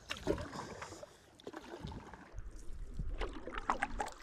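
Paddle strokes in lake water, with water splashing and lapping against the boat in irregular bursts. A low rumble comes in about two seconds in.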